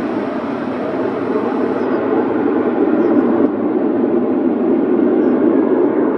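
Jet airliner engines at takeoff power, a loud, steady rushing noise that slowly builds.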